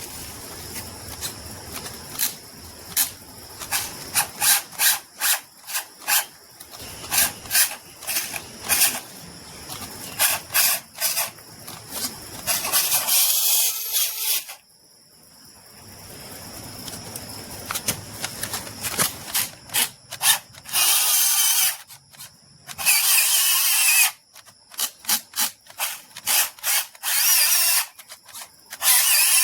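Small handheld power tool, like a drill, run in many short bursts with a few longer runs of one to two seconds.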